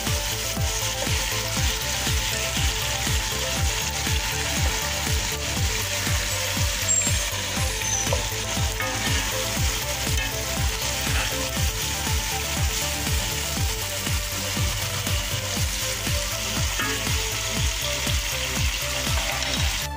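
Chicken pieces and diced tomatoes sizzling steadily as they fry in oil in a pan, with a wooden spatula stirring and scraping now and then. A steady low beat of about two pulses a second runs underneath.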